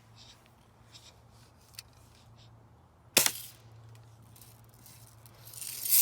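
A spring-powered BB air rifle firing once about three seconds in, a single sharp crack. Near the end it is followed by a rustling noise that swells and grows louder.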